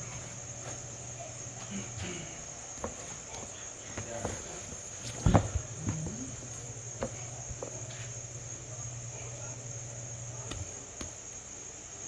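Crickets chirring steadily and high-pitched in the background, over a low steady hum, with scattered knocks and clatter from kitchen work, the loudest knock about five seconds in.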